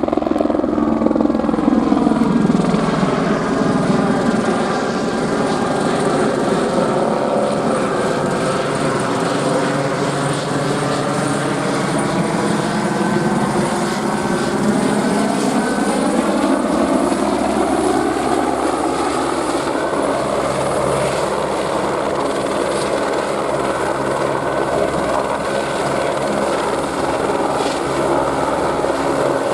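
Airbus AS350 helicopter flying close, a steady rotor-and-turbine drone. Its pitch slides lower over the first dozen seconds and rises again around twenty seconds in.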